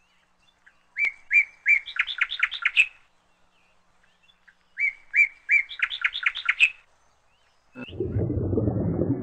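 A songbird singing two similar phrases, each a few evenly spaced notes followed by a quicker run of notes, with a pause between them. Near the end a low rushing noise starts and carries on.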